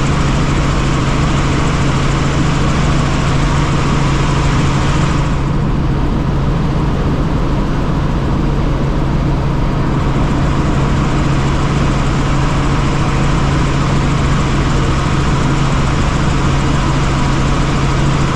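Helicopter engine and rotor noise heard inside the cabin: a loud, steady drone with a strong low hum. The higher hiss eases for a few seconds about five seconds in, then returns.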